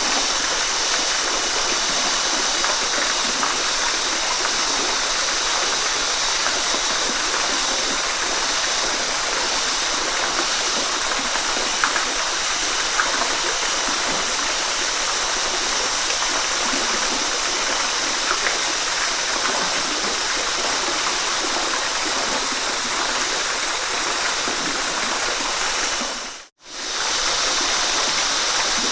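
Waterfall running: a steady rushing hiss of falling water. Near the end it fades out to silence for a moment and comes straight back.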